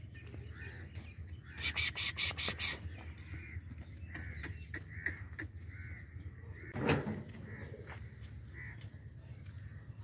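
Birds calling: a quick run of about six harsh calls, then faint chirps repeating every half second or so. A single short knock sounds about seven seconds in.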